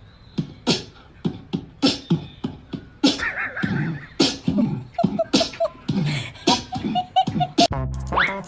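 Beatboxing: rhythmic mouth percussion with sharp hits about twice a second, joined by voice-like vocal sounds from about three seconds in.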